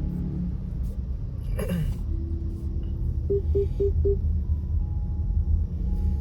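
Steady low rumble of a car being driven, heard inside the cabin. A sharp click comes a little under two seconds in, then four short beeps about four a second.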